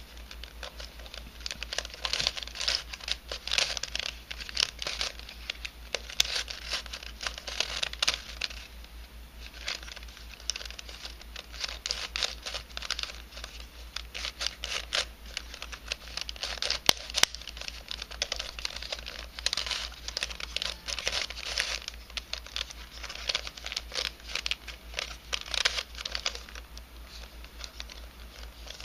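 A 3D-printed nylon helicopter cube twisty puzzle being turned by hand: dense, dry clicking and scraping of the plastic pieces sliding past each other, in runs with short pauses and one sharper click partway through.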